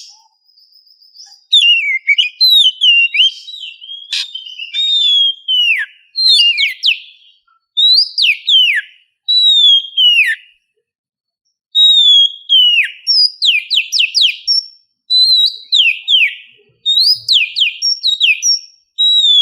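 Oriental magpie-robin (kacer) singing: loud, varied whistled phrases with sharp downward slurs and quick runs of notes, given in bouts with short pauses between them.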